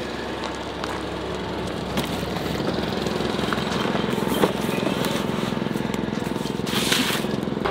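An engine idling steadily, with a few sharp knocks as cardboard boxes are set down on a truck's steel flatbed, and a short rush of noise near the end.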